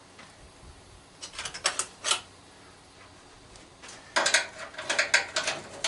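Sockets and a ratchet wrench being handled: a few separate sharp metal clicks, then a quicker run of clicks from about four seconds in.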